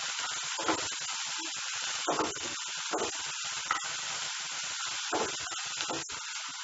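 Sliced bitter gourd, shallots and dried red chillies sizzling in hot oil in a non-stick kadai, a steady hiss, with the scrape of a wooden spatula stirring them every second or so.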